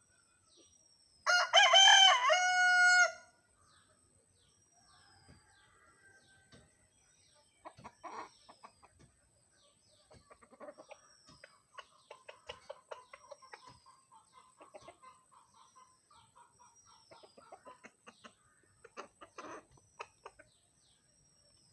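Desi rooster crowing once, loud, about a second in: one long call of about two seconds. Soft clucking follows later on, with a faint short high chirp repeating every couple of seconds.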